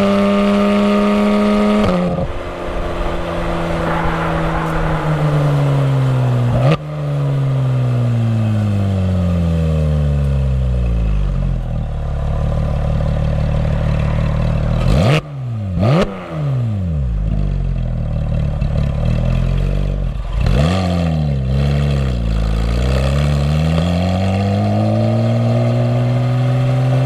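Porsche 991 GT3's flat-six engine through Fabspeed sport headers and side muffler bypass pipes. Its revs fall gradually over several seconds, with two quick sharp throttle blips about halfway through, then dip and climb again before settling into a steady run near the end.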